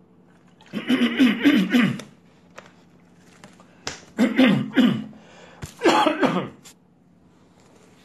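A man coughing hoarsely in three bouts about a second long each, from a sore, strained throat.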